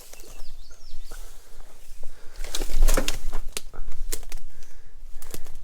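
Footsteps crunching and rustling through dry weeds and brush, a string of uneven crackles, loudest about two and a half to three seconds in.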